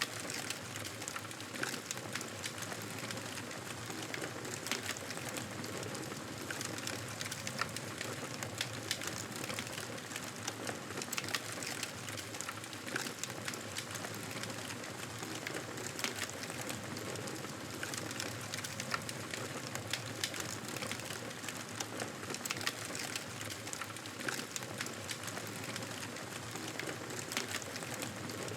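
Campfire burning with a steady hiss and many scattered sharp crackles and pops.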